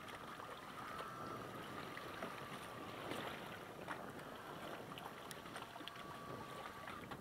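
Steady high whine of a radio-controlled model craft's battery-powered electric motor heard across the water, over a hiss of wind and water.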